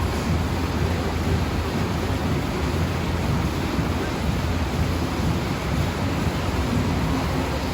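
An engine running steadily: an even low drone under a broad hiss, with no change in speed.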